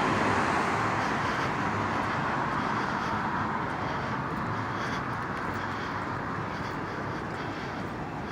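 Steady rushing noise of road traffic, slowly fading.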